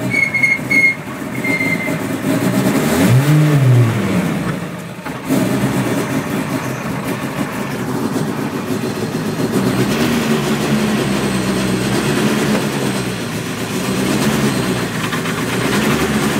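Skoda rally car's engine heard from inside the cabin, revving up and back down once about three seconds in, then running steadily at low speed with small rises and falls in pitch. A few short high beeps sound in the first two seconds.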